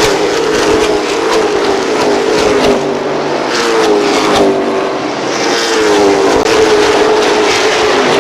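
A car engine running, its tone sliding down in pitch several times, about once every second or two.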